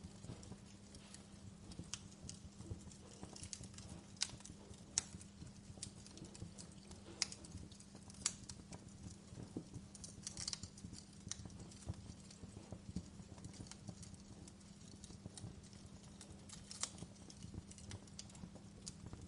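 Fireplace crackling: irregular sharp pops and snaps, a few louder than the rest, over a faint steady low hum.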